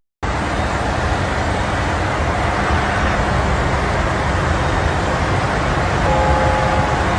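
A loud, steady rushing noise with no clear rhythm, starting abruptly after a brief dropout; a faint high tone sounds for about a second near the end.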